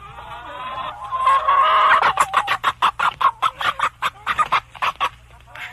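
Chickens clucking: a pitched call about a second in, then a rapid run of short, repeated clucks that fades near the end.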